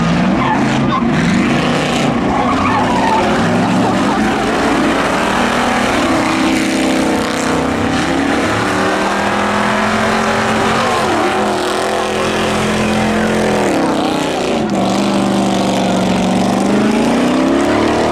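Several race cars' engines running hard around a figure-8 track, their pitch rising and falling as they accelerate and back off; one engine drops and then climbs sharply in pitch near the end.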